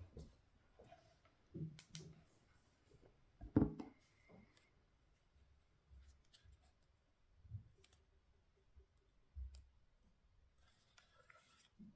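Scattered light clicks and knocks of small tool parts being handled on a workbench, with one louder knock about three and a half seconds in.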